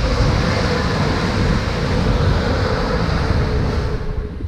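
Class 180 diesel multiple unit passing close at speed: wheel-on-rail and engine noise with a steady whine, loudest at the start and dying away about four seconds in as the train clears.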